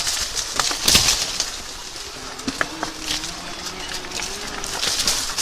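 Riding noise from an electric bike on the move: wind on the microphone and tyre noise in uneven surges, with scattered clicks and rattles.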